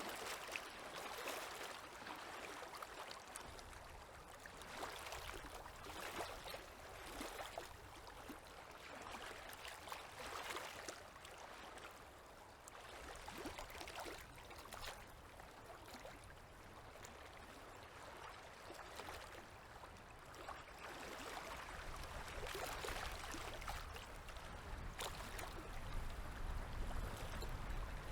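Small waves lapping and gurgling at a river's edge in soft, uneven swells, with light splashy ticks. A low rumble builds up in the last several seconds.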